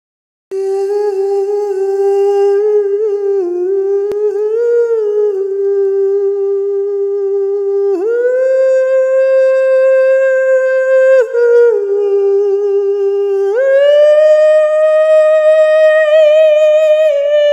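Humming in long held notes: one steady pitch that steps up about eight seconds in, drops back a few seconds later, then rises to a higher note held to the end.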